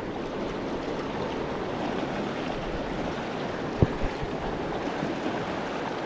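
Steady rush of flowing river water, with two short low thumps close together about four seconds in.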